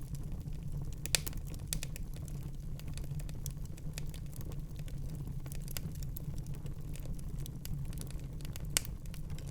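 Wood fire crackling in a fireplace: a steady low rumble under scattered sharp pops and snaps, with two louder pops about a second in and near the end.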